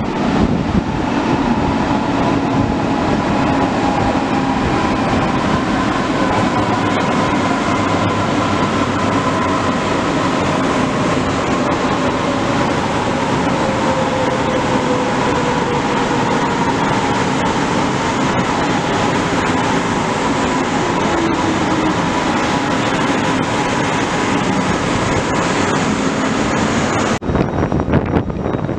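Red DB S-Bahn electric multiple unit running along the platform of an underground station, a steady rumble of wheels on rail with electric motor whines that glide down in pitch as it slows. The sound breaks off abruptly near the end.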